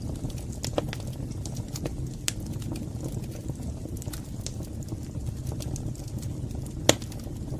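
Wood fire crackling in a fireplace: a steady low rumble of burning with scattered sharp pops and snaps, the loudest pop near the end.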